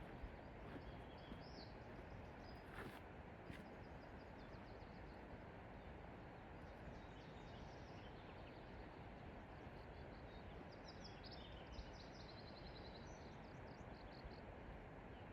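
Faint mountain-forest ambience with small birds chirping high and thin; a quick run of rapid chirps comes about two-thirds of the way through.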